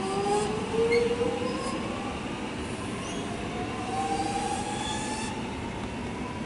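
X'Trapolis electric train at the platform, its electric drive whining in pitched tones that glide slowly upward, over the rumble of the train.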